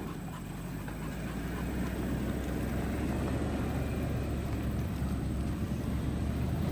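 A vehicle's engine running low and steady, growing louder over the first couple of seconds and then holding.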